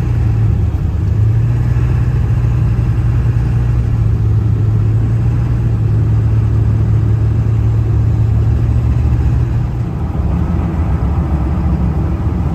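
Ford 7.3 Power Stroke V8 turbodiesel truck driving at a steady speed: a low, even engine drone with road noise, easing off about ten seconds in.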